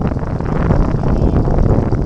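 Steady wind buffeting a microphone that is moving along on a bicycle, with a low rumble and light ticking.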